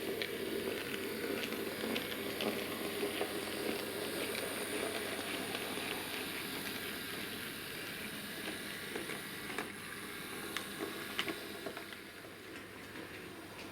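Bachmann Class 03 OO gauge model shunter running slowly along the track: a steady motor hum with irregular light clicks from the wheels over rail joints and points.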